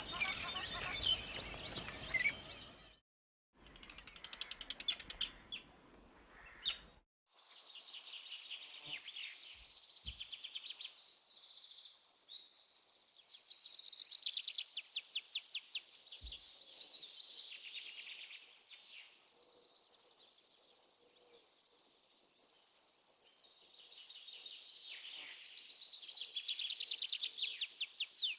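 Songbirds chirping and singing, with short breaks where the sound cuts out about three and seven seconds in. The loudest part is a fast trill of short, repeated downward-sweeping notes from about thirteen to eighteen seconds in, which comes back near the end over a steady high hiss.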